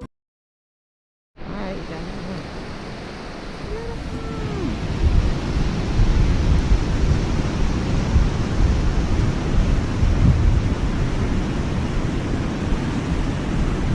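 Steady roar of a waterfall's rushing water, with a deep rumble. It starts after about a second of silence and grows louder over the next few seconds.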